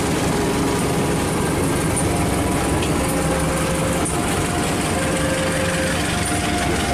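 Diesel-hauled passenger train passing at close range: the steady rumble and roar of the locomotive and coaches rolling by, with a few thin whining tones that come and go.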